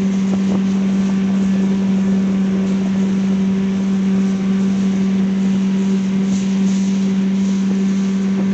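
Evinrude/Johnson 9.9 hp outboard motor running at a steady speed, pushing the boat along with an even, unchanging drone.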